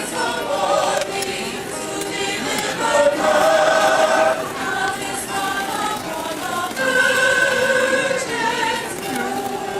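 Voices singing, with several notes held for about a second each.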